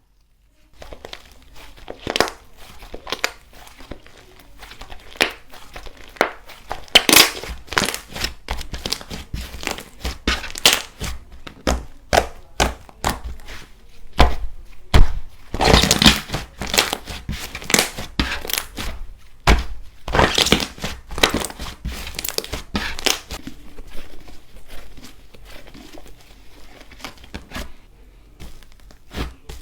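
Slime being squeezed and pressed by hand, making dense, irregular crackling and crunching with louder bursts of pops every few seconds.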